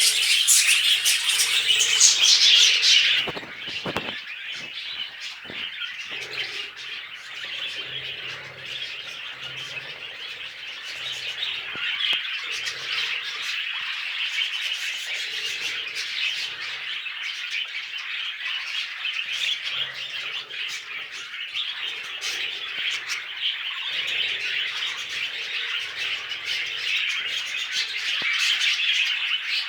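Budgerigars chattering and warbling in a continuous dense stream of high chirps and squawks, loudest in the first three seconds, with a few sharp clicks about four seconds in.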